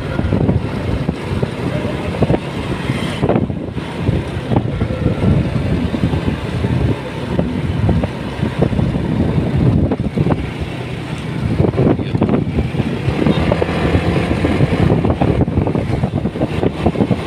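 Motorcycle engine running at a steady pace while riding, its hum mixed with rough wind noise on the microphone.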